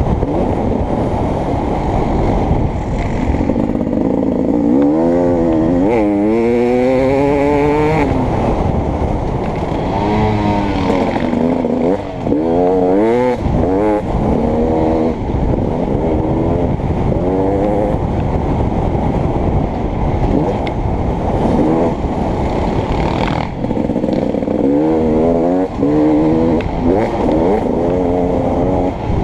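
Beta 300RX two-stroke motocross bike engine, revving up and dropping back again and again as the rider accelerates, shifts and rolls off.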